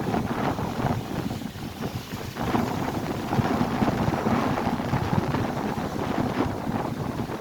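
Strong wind buffeting the microphone over waves crashing on the lake shore, growing louder about two and a half seconds in.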